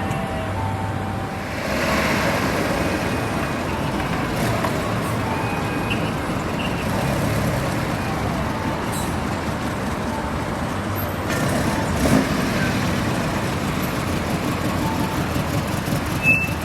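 Cars being driven slowly out under their own power, engines running with a steady traffic rumble. It gets louder about two seconds in, and there is a short knock about twelve seconds in.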